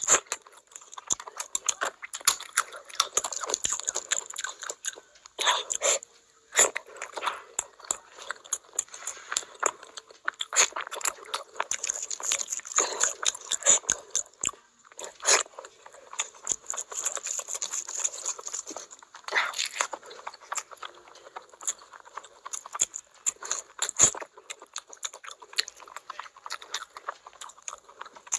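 Close-up wet chewing and lip-smacking of big mouthfuls of rice and curry eaten by hand, full of quick sharp clicks.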